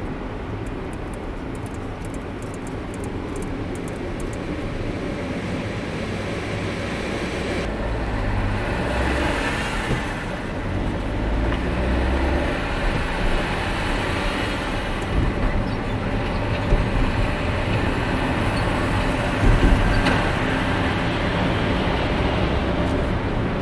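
A car driving on the road: a steady rumble of tyres and engine that grows gradually louder over the first half.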